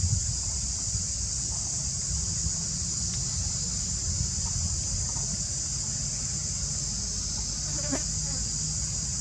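Steady, high-pitched chorus of insects, unbroken, over a low rumble.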